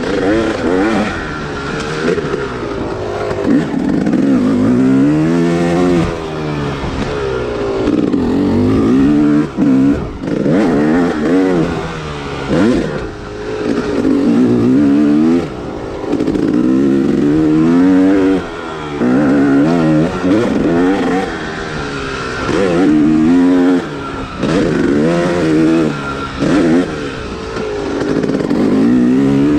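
Yamaha YZ dirt bike engine being ridden hard: the throttle is opened and closed over and over, the pitch climbing and falling in waves every couple of seconds, with brief drops where the rider backs off.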